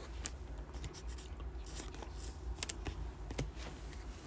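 Faint clicks and scratches of trading cards and packs being handled, a few short ones a little past halfway, over a low steady hum.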